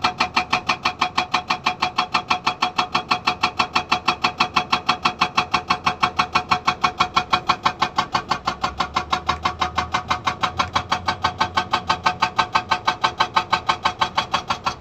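SAGA 288H hydraulic rock breaker on a Komatsu PC200 excavator hammering stone: a steady, rapid run of sharp blows, about five a second, over the excavator's running engine.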